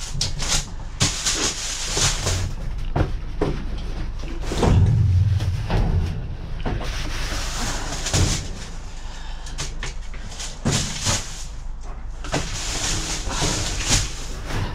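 Rustling, clatter and repeated knocks of objects being handled, with a low rumble about five seconds in.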